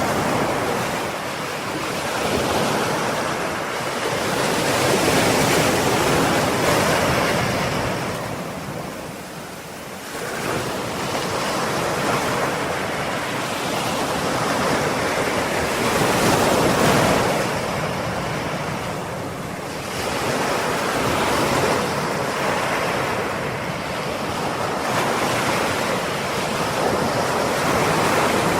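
Ocean waves breaking and washing on the shore in slow, overlapping surges that swell and ebb every few seconds, a steady rushing surf with no other sounds over it.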